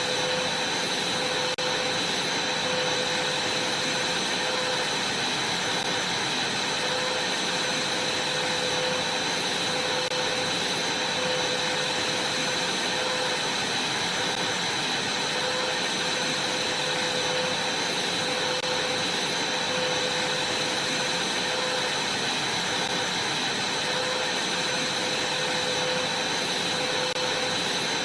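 Vacuum cleaner running steadily: a constant drone with a high whine over a rushing hiss, level throughout.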